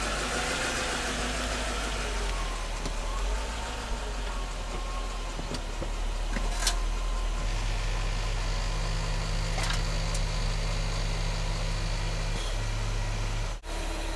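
2001 Mercedes-Benz S500's V8 engine idling steadily, a low hum.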